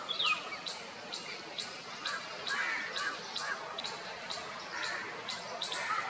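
Birds calling: a short falling whistle near the start and a few soft chirps, over a sharp high tick repeated steadily about twice a second.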